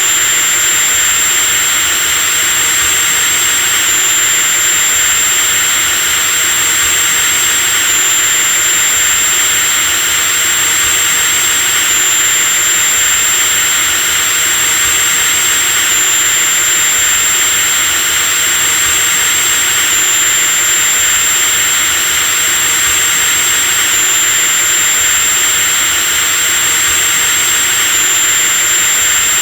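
Electric drill motor running continuously at one steady speed: a high, constant whine over a loud hiss, with a slight hitch about every four seconds.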